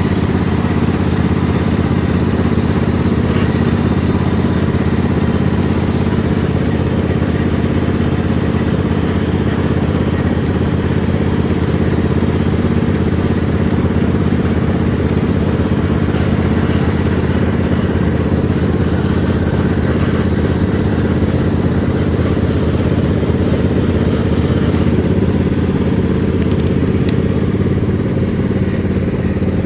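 Riding lawn mower engine running steadily at an even speed, heard close up.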